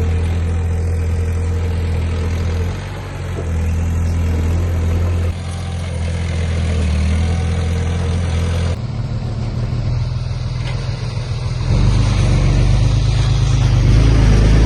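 Engines of heavy earthmoving machinery (dump truck and bulldozer) running steadily, with the sound changing abruptly twice and growing louder near the end.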